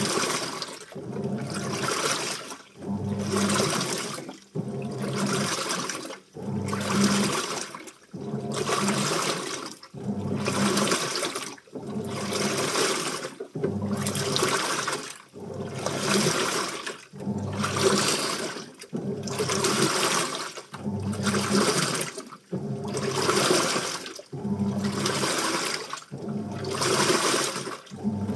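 Washing machine in its wash cycle: water sloshing in strokes about every second and a half, with the motor's low hum under each stroke.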